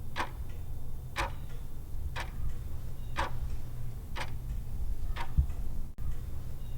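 Clock ticking as a quiz countdown timer sound effect: a sharp tick about once a second, with fainter ticks between, over a steady low hum.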